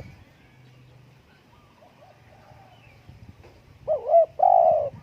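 Spotted dove cooing: near the end, one phrase of two short wavering notes followed by a longer, fuller note. Fainter coos from other doves sound in the background.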